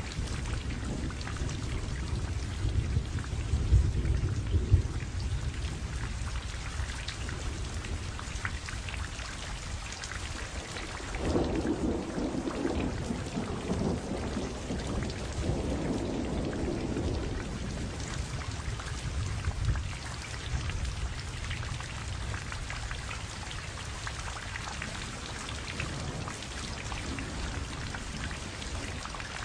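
Steady rain falling, with low rumbles of thunder that swell and fade a few seconds in and again near the middle.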